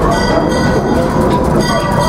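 Steam train's cars running steadily on the track: a continuous rumble with rail clicks and a high, thin metallic squeal that comes and goes about every second and a half.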